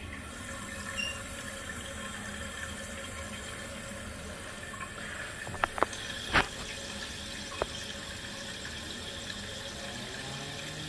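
Toilet tank refilling through its fill valve after the water supply is turned back on: a steady hiss of running water, with a few sharp clicks about halfway through.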